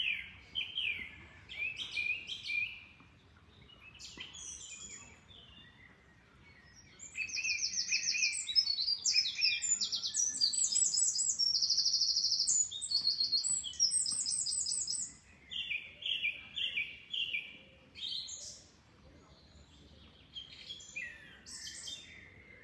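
Several wild birds singing: scattered chirps, then a busy stretch of rapid, fast-repeated trills in the middle that is the loudest part, followed by a short repeated phrase and more scattered calls.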